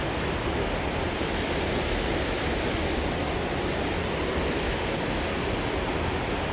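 Flowing creek water rushing steadily.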